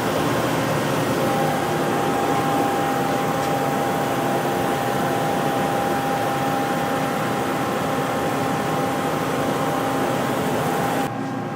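Mori Seiki SL-8 CNC lathe and its hydraulic unit running: a steady mechanical hum with a steady whine that comes in about a second in. The sound drops suddenly near the end.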